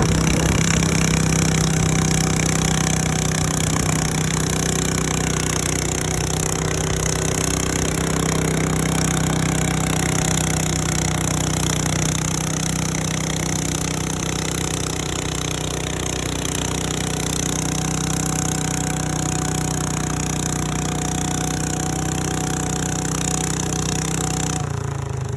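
A 12-horsepower stock garden tractor engine running steadily under load while pulling a weight sled. It holds an even pitch and cuts off abruptly near the end.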